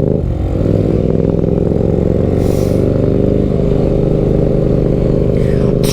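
Benelli BN 125's single-cylinder engine running steadily under way, its note holding at an even pitch.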